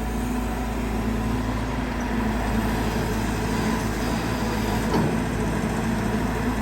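Caterpillar 320GX excavator's four-cylinder C4.4 diesel engine and hydraulic pump running steadily, with a short knock about five seconds in.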